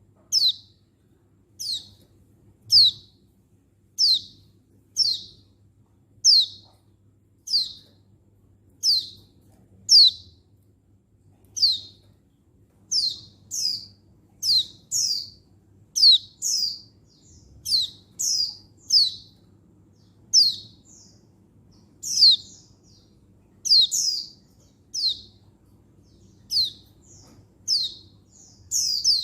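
Female white-eye (pleci) giving a high, thin call over and over, about once a second, each call a quick downward sweep. From about halfway through, some calls come in quick pairs. It is the female's call to a male, which keepers play to rouse male white-eyes.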